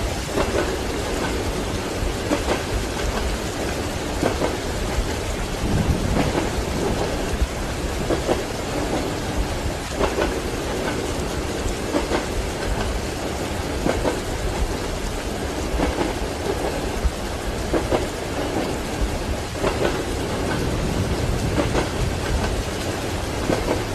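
Steady rain with low rolling thunder, over the rhythmic clack of train wheels on rail joints about every two seconds, as heard from inside a train compartment.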